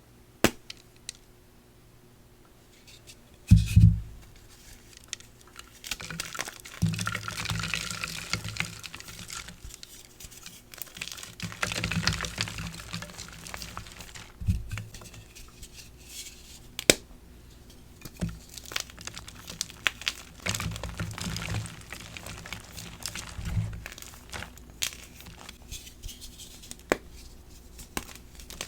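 Dyed BSN gym chalk blocks being crushed, crumbling and crunching in long grainy stretches broken by sharp snaps, with a heavy thump about four seconds in.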